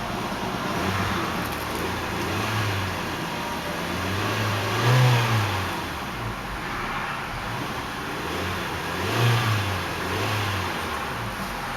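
A 2010 Hyundai Elantra Touring's 2.0-litre 16-valve DOHC inline-four idling and being revved while standing still. It gives a few light blips early on and two bigger revs, rising and falling, about five and nine seconds in.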